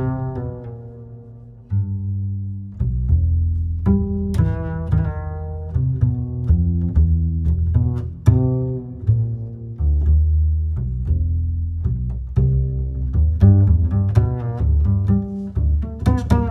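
Slow, relaxing guitar music: a melody of plucked notes, each fading after it is struck, over a deep bass line.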